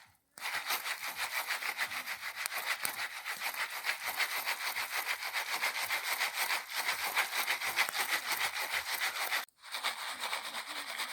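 Jiffy Pop foil pan shaken back and forth over a campfire: a steady, rapid scraping rub, with the unpopped kernels sliding inside before any have popped. The sound cuts out briefly near the start and again near the end.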